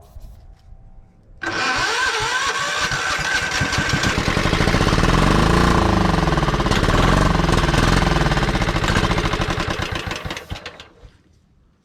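Kohler 15 hp engine on a John Deere LX255 lawn tractor, cranked on the starter and firing on starting fluid. It cuts in suddenly about a second and a half in and runs loudly and unevenly, its speed rising and falling. It dies away near the end.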